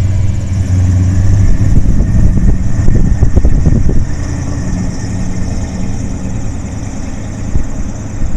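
The 1972 Oldsmobile Cutlass's 455 V8 engine running, louder in the first half and then dropping off and fading about four seconds in.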